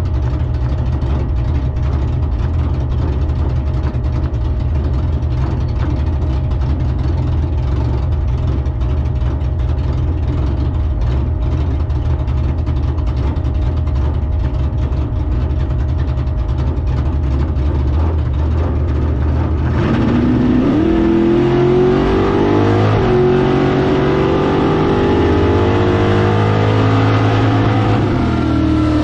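V8 drag car engine rumbling steadily, then about twenty seconds in it launches and revs hard for about eight seconds, its pitch climbing in steps, before backing off near the end.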